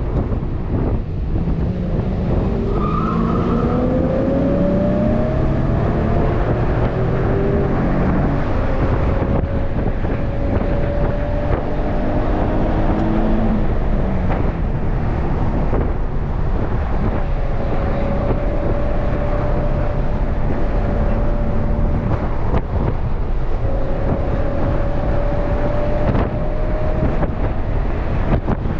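Nissan 370Z roadster's 3.7-litre V6 accelerating, its note rising during the first several seconds, then running at a steady cruise. It is heard from the open cockpit under loud, continuous wind rush.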